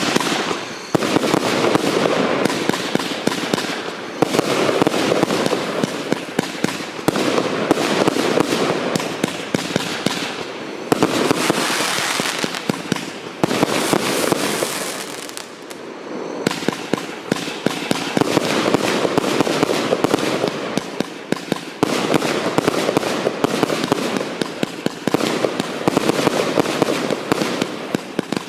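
135-shot compound barrage firework cake firing: a rapid, dense run of launches and bursts. The firing eases off briefly about fifteen seconds in, then picks up again.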